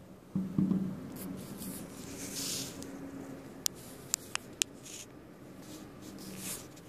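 Aerial fireworks going off: two low booms about half a second in that rumble on for a couple of seconds, then four sharp crackling pops around the middle.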